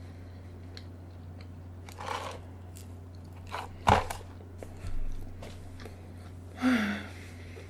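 Close-miked eating sounds: a few separate crunchy bites and chewing noises, with one sharp click about four seconds in, over a steady low hum.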